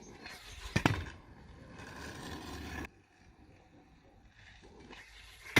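Stunt scooter riding on pavement: wheels rolling with a sharp clack of the scooter hitting the ground about a second in, the rolling stopping suddenly near the middle, and another sharp clack at the very end.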